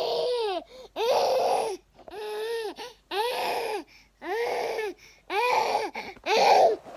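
A child making a string of weird, cry-like vocal noises: seven wailing calls about a second apart, each rising and then falling in pitch.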